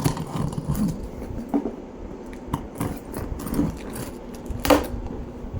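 Packaging being handled during an unboxing: scattered rustles and light clicks, with one sharp knock near the end.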